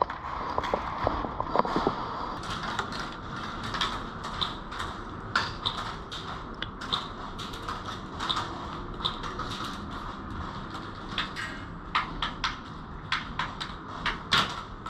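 Airsoft gunfire in a skirmish: irregular sharp clicks and snaps of shots and BBs striking, some in quick clusters.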